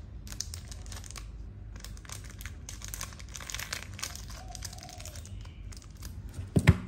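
Packaging rustling and crinkling irregularly as it is handled, with one louder knock near the end.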